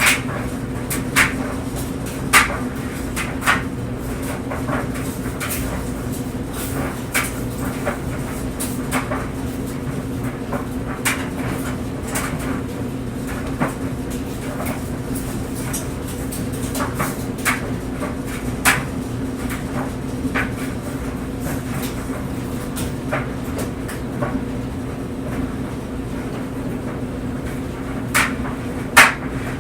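Clothes dryer running: a steady drum-and-motor hum with clothes tumbling, and irregular knocks as the load drops against the drum, one louder knock near the end.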